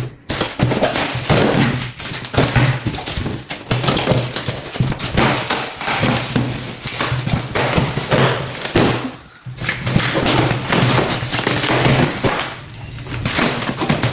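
Packaging rustling and crinkling as a parcel is unpacked by hand, with scattered light knocks and taps.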